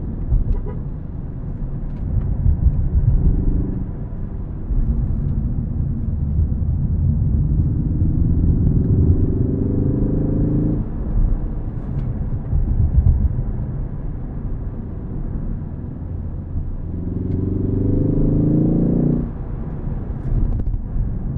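Ford Focus ST engine pulling hard twice, its note climbing steadily in pitch for about three seconds and two seconds, each climb cut off sharply as the throttle comes off or a gear is changed, over a steady road and tyre rumble.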